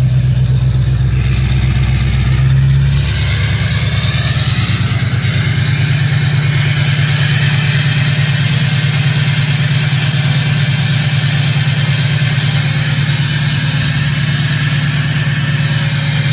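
Ford 6.0 Powerstroke V8 turbodiesel, straight-piped through a 4-inch exhaust, running on a cold start. It steps up into high idle about three seconds in, and the turbo's whistle then climbs steadily in pitch.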